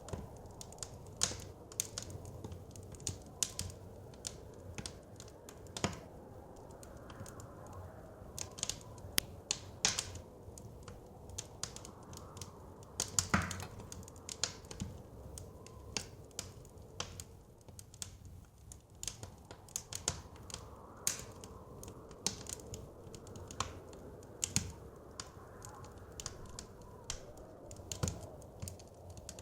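Fireplace fire crackling with irregular sharp pops, one louder pop about halfway through, over a low steady rush of blizzard wind.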